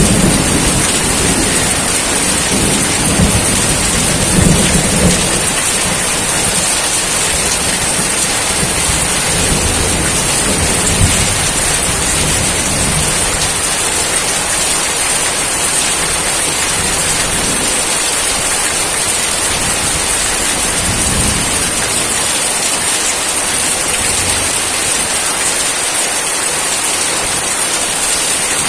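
Steady heavy rain hissing without a break, with low rolling thunder in the first few seconds and again faintly about two-thirds of the way through.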